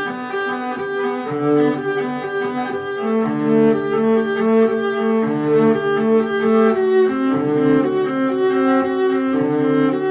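Background music: bowed string instruments, led by a cello, playing sustained melodic notes.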